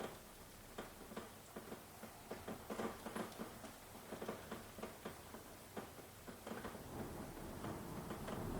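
Rain falling, heard as irregular drips and patters of large drops. A low rumble of thunder begins to build about two seconds before the end.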